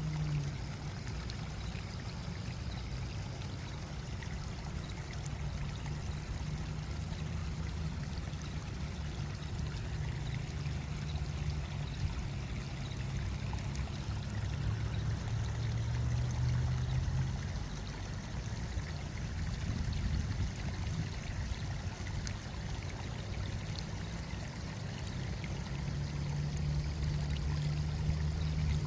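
Water fountain running continuously, water pouring and splashing in a steady rush that swells and eases gently every several seconds.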